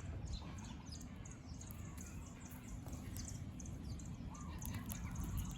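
Several wild birds chirping and calling, with many short high chirps and a lower call twice, over a steady low rumble.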